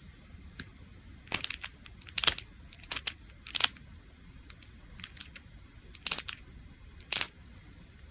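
A string of irregular sharp clicks and short scratchy rustles, about a dozen, in small clusters with brief pauses between them.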